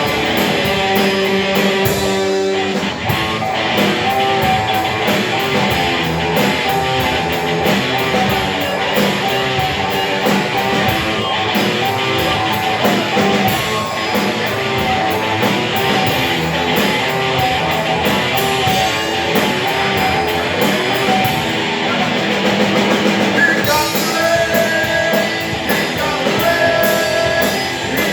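A rock band playing live, with guitars over a drum kit at a loud, steady level; held melodic notes come in over the band about three-quarters of the way through.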